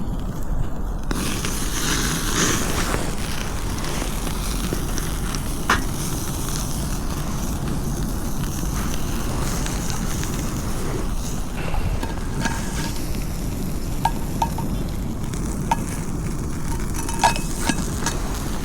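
Food sizzling in a pan over a campfire, with wind rumbling on the microphone. A few light clicks come in the second half.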